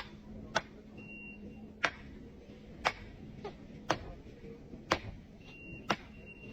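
Regular sharp ticks, about one a second, some followed by a fainter tick, over a steady low hum.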